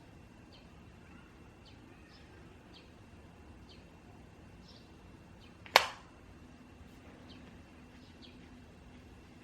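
One sharp tap or click about six seconds in, over quiet room tone. Faint, short high chirps recur about once a second throughout.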